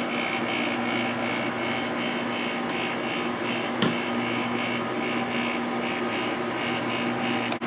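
Sharp window air conditioner running steadily with its rotary compressor and fan on, a smooth even hum that sounds healthy, with a single sharp tick about four seconds in.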